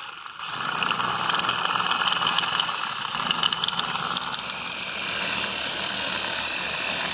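Small motor of a battery-powered toy vehicle running steadily, a whirring hum with a crackling rattle.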